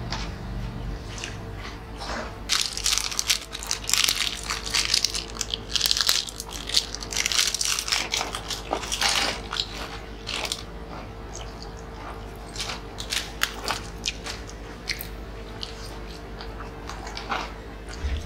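Close-up crunching and chewing of crispy fried snacks, in dense crackly bites through the first half and sparser bites later, over a steady low hum.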